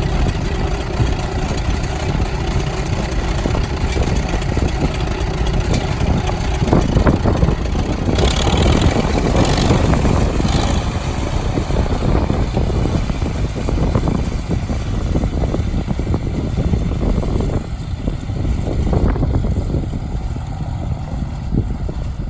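Farmall M tractor's four-cylinder engine running steadily.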